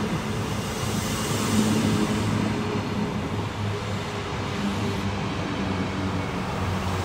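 Midland Pullman HST coaches rolling past: a steady rumble of wheels on rail, with a low droning hum underneath from the diesel power car at the rear of the train.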